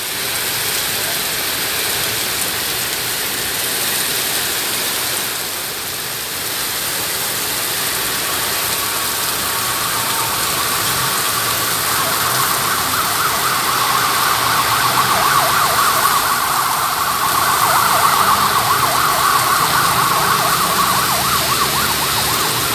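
Heavy rain hissing steadily. About halfway through, a fast-warbling siren comes in over the rain and grows louder toward the end.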